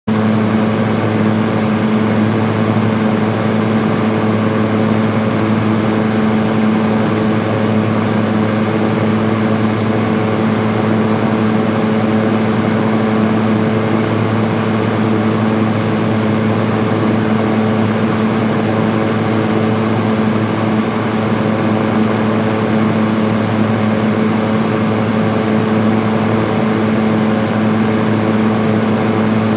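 Electric fan running on its high speed setting: a steady, unchanging whoosh of air with a low motor hum underneath.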